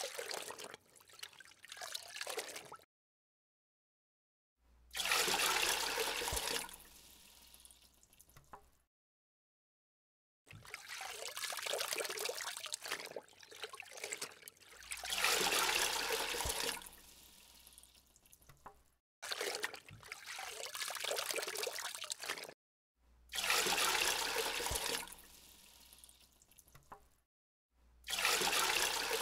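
Water poured from a small plastic bag into a miniature plastic-tub pond, in about six pours that each start strong and fade to a trickle. Dead silences from edits cut in between them.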